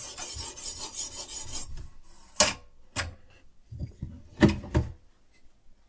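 A sharpening stone on a guided-angle knife sharpener rasping in quick, even back-and-forth strokes along a steel knife blade. The strokes stop a little under two seconds in, followed by four sharp clicks and knocks.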